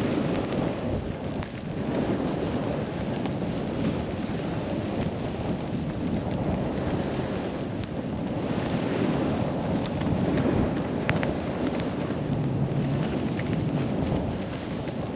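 Wind rushing over a helmet-mounted camera's microphone while riding a snowboard downhill, mixed with the board hissing through powder snow, swelling and easing with the rider's speed.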